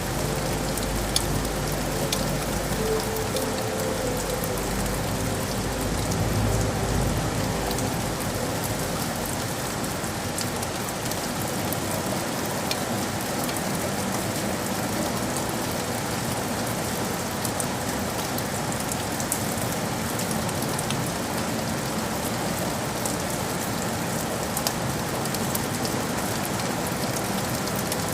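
Steady city rain: an even hiss of rain falling on surfaces with scattered sharp drop ticks. A low rumble sits under it for the first several seconds, then fades.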